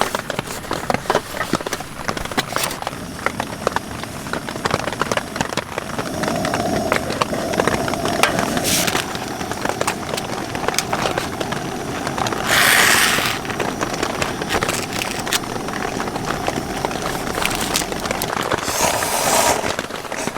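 Heavy rain pattering on tent fabric, a dense crackle of drops. Three short, louder rushes of noise cut in, the loudest about thirteen seconds in.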